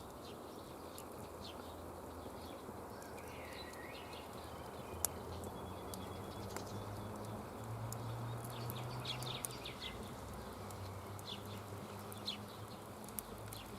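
Outdoor ambience of small birds chirping now and then, with scattered faint clicks and crackles over a steady low hum.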